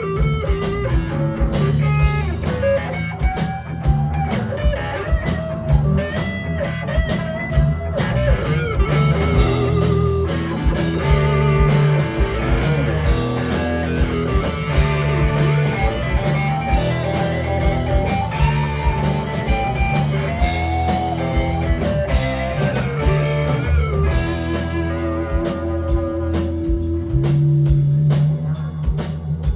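Live band playing an instrumental: a lead electric guitar line with bent, gliding notes over bass and a drum kit with a steady cymbal beat.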